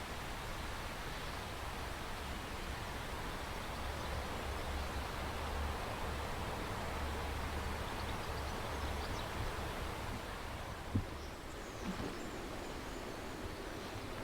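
Steady outdoor background noise with a low rumble underneath, and a faint knock about eleven seconds in, followed by another soon after.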